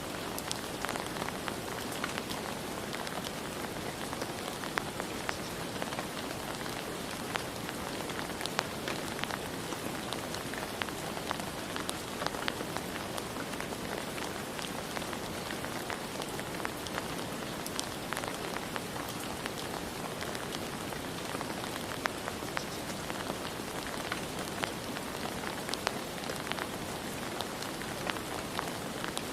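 Steady rain falling, an even hiss with many close drops ticking on a hard surface.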